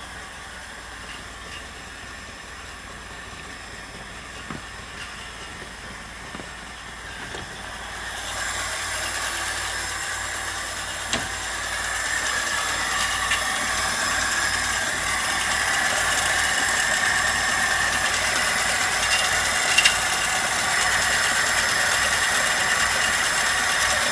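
VAZ-2103's inline-four engine running, with the extraneous engine noise that the owner is trying to show. It grows louder in steps, about a third of the way in and again toward the middle.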